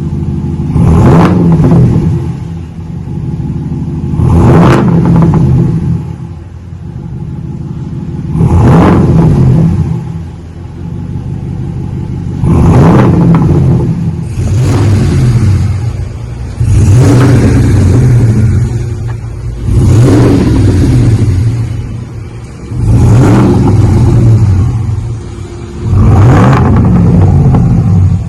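2020 Ram 1500's 5.7 Hemi V8 revved through a single-chamber V-tube muffler with the rear resonators removed, giving a deeper rumble. It is blipped from idle about nine times, the later revs held for a second or two before falling back to idle.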